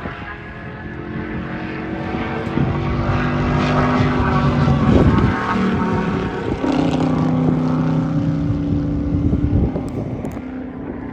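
A race car's engine passing at speed: the engine note grows louder up to about five seconds in, drops in pitch as the car goes by, then holds a steady note and fades near the end.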